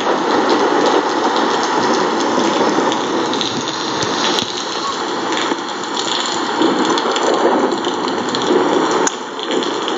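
Steady rain falling and pattering, an even hiss made of many fine drop ticks.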